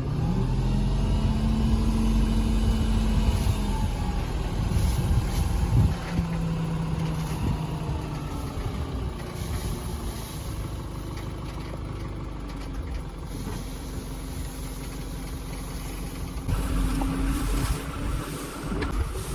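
Heavy truck engine running, its pitch shifting up and down as it works. It is louder for the first few seconds, eases off in the middle and picks up again near the end.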